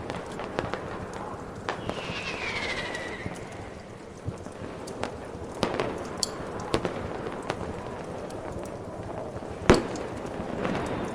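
Fireworks popping and crackling, with a whistle falling in pitch about two seconds in and one loud bang near the end.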